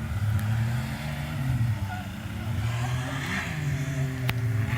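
Side-by-side UTV engine running hard, its pitch dipping and climbing again twice as the throttle comes off and on. A sharp click about four seconds in.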